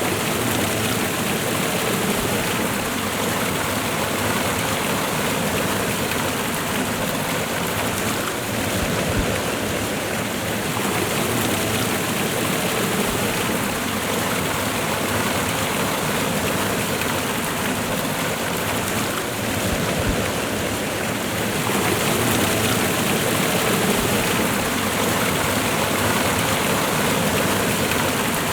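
Waterfall and fast-running river water: a steady, even rush of falling and flowing water.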